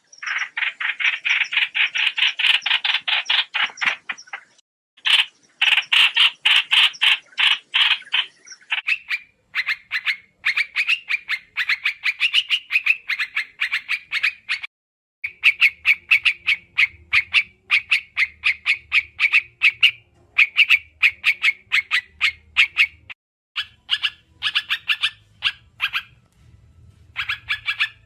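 Trao trảo bird lure call: long, fast trains of sharp, repeated chattering notes, several a second, broken by brief pauses. A faint low hum sits under the second half.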